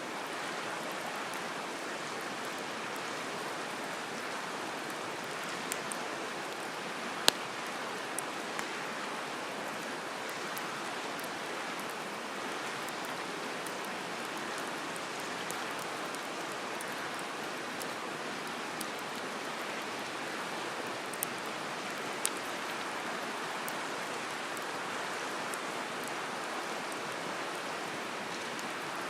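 Wood campfire crackling, with a few sharp pops of the burning wood, the loudest about seven seconds in, over a steady rushing background.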